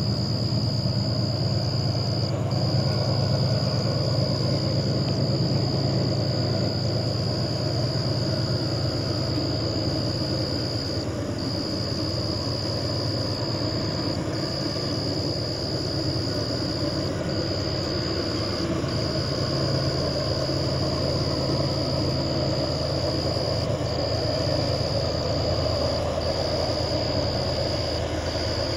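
Diesel-electric freight locomotives working in the distance as the train approaches: a steady low engine rumble that holds level throughout.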